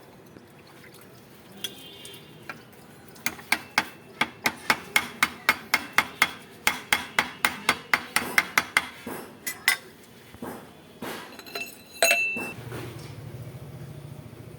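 Hammer striking metal in a quick, even run of about twenty blows, roughly four a second, then a few slower knocks and one loud ringing strike near the end.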